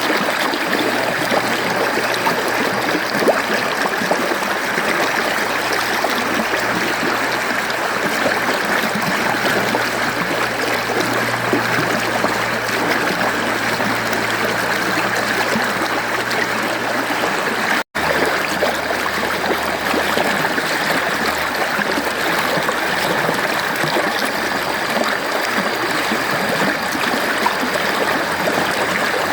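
Mountain stream water flowing and rushing steadily over rocks. It cuts out for an instant about two-thirds of the way through, at a join in the recording.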